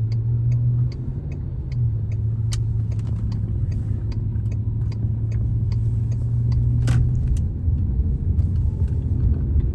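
Tow truck engine running and road rumble heard from inside the cab while driving, with a steady low hum that eases off about seven seconds in. Small clicks and rattles are scattered throughout.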